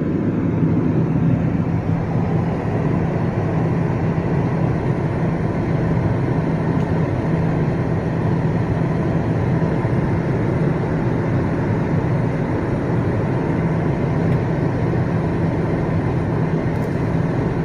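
Steady engine and tyre noise heard inside a car's cabin while driving, a constant low hum over road noise.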